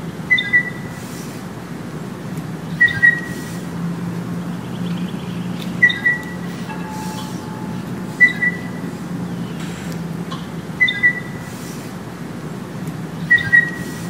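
A bird repeats a short whistled two-note call about every two and a half seconds, six times, over a steady low hum and soft slow breathing.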